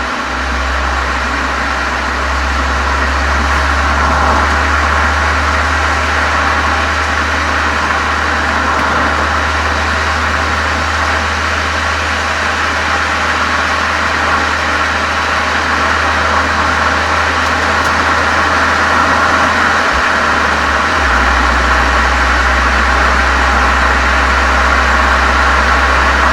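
Golf 7 GTI's turbocharged 2.0-litre four-cylinder running steadily through a Cox aftermarket exhaust with chamber, heard from outside at the rear: a steady deep drone under an even hiss, with no revving.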